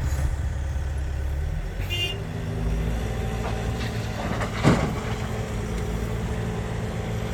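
Diesel dump truck engine running steadily at low revs, its low hum shifting down in pitch shortly after the start. A brief high chirp comes about two seconds in, and a single sharp knock about halfway through.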